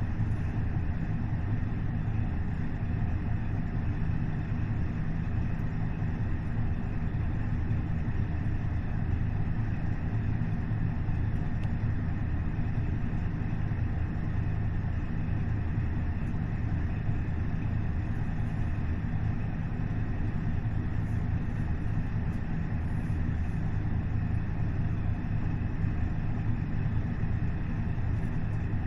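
KiHa 40 series diesel railcar's DMF15HSA diesel engine running steadily, a low even drone that holds the same pitch throughout.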